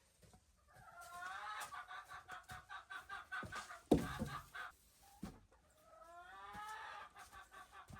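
An animal calling in two long runs of quick pulsed notes, each run rising in pitch at its start: the first about a second in, the second around six seconds. A loud thump comes about four seconds in.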